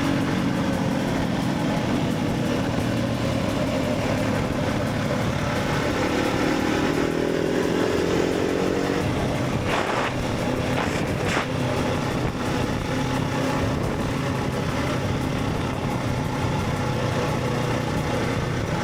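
Motorcycle engine running under way with steady wind and road noise, its pitch rising for a few seconds about a third of the way in as the bike accelerates. Two short clicks come just past the middle.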